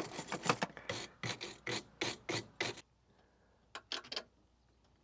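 Quick rasping strokes, about three a second, stop nearly three seconds in; three short strokes follow about a second later.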